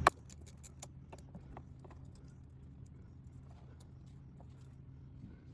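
Hand tools and small hardware being handled: a sharp click right at the start, then faint, scattered ticks and taps over a low steady hum.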